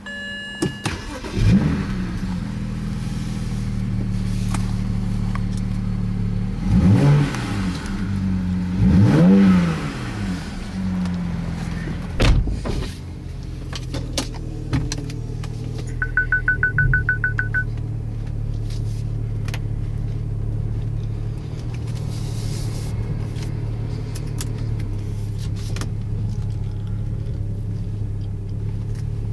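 BMW 335i's twin-turbo inline-six engine and exhaust: the engine catches and flares about a second and a half in, is revved up and back down twice, then settles into a steady idle. A sharp knock sounds about twelve seconds in, and a quick run of about ten high electronic beeps comes in the middle.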